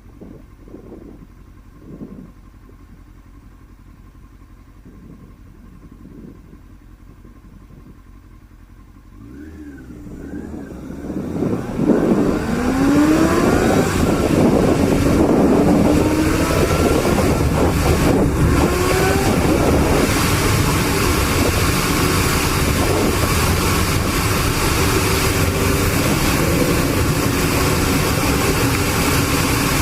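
Motorcycle engine ticking over low at first, then from about ten seconds in accelerating with rising revs through several gears into a loud steady run with rushing wind.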